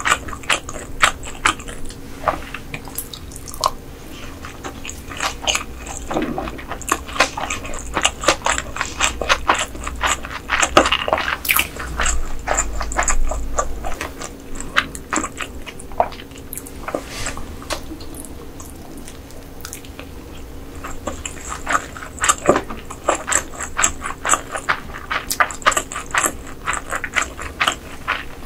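Close-miked eating sounds: wet chewing, smacking and small crunches, dense with sharp mouth clicks, busiest around the middle.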